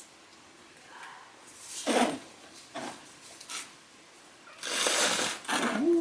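A few soft scuffs and rustles, then a domestic cat starts to meow right at the end.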